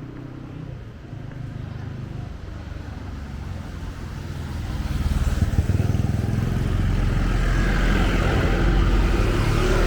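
Street traffic: a motor vehicle's engine rumbles and grows much louder from about halfway through as it comes close, with a hiss building over it near the end.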